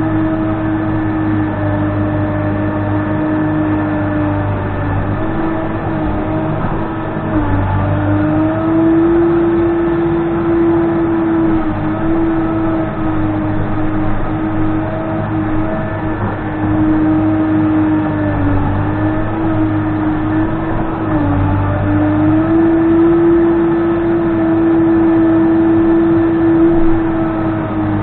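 Case 580N backhoe loader's diesel engine running at high revs, its steady tone dipping briefly and recovering several times as it takes load.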